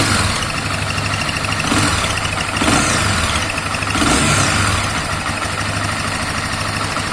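Honda CB 250F Twister's single-cylinder engine running, swelling briefly three times about two, three and four seconds in. The owner hears a strange noise in it whose cause he does not know.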